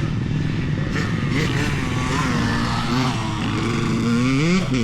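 Motocross dirt bike engines running out on the track. Near the end, one bike revs up with a sharply rising pitch.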